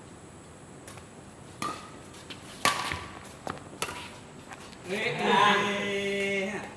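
Badminton rally: a handful of sharp racket strikes on the shuttlecock, irregularly spaced about a second apart, then a loud, drawn-out shout from a player for the last two seconds.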